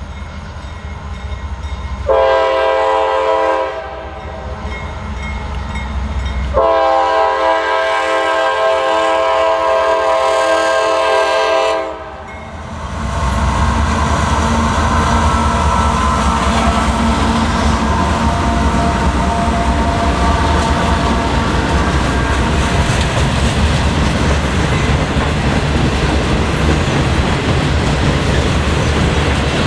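Horn of a CSX GE AC44 freight locomotive sounding a chord of several tones, a shorter blast and then a long one. After that the mixed freight train runs past with a loud, steady rumble.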